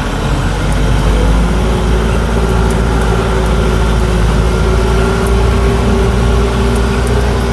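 Safari tram's engine running steadily, a low, even drone heard from on board.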